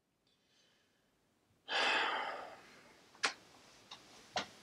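A long, reluctant sigh of defeat from a teenage boy, fading out over about a second and a half. It is followed by two sharp knocks about a second apart as he rolls off the bed.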